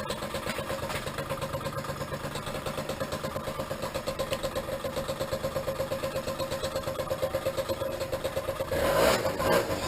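Small engine idling with an even pulsing beat, then growing louder and rougher near the end as it is revved.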